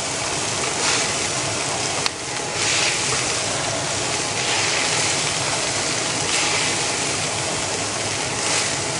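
Meatballs frying in butter in a pan: a steady sizzle that swells every second or two, with one sharp click about two seconds in.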